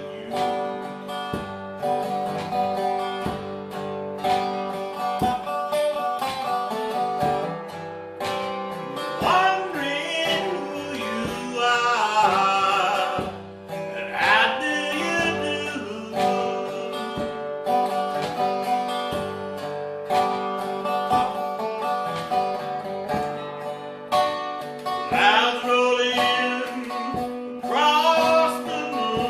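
Blues music on guitar: a steady strummed accompaniment with a bending lead melody that comes in a third of the way in and again near the end.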